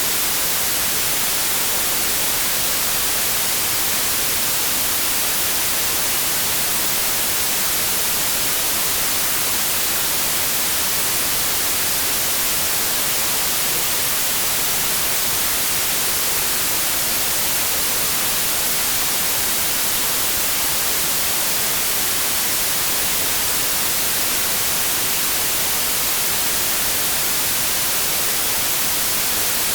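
Pure white noise: a steady, even hiss of static across the whole range, unchanging in level and without any tone or break.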